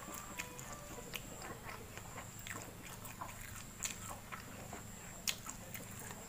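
Soft close-up chewing and mouth sounds of someone eating rice by hand, with scattered short clicks, over a faint steady high whine.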